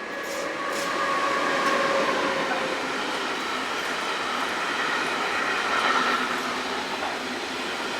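A train running: a steady noise that grows louder over about the first second, with faint high steady tones above it.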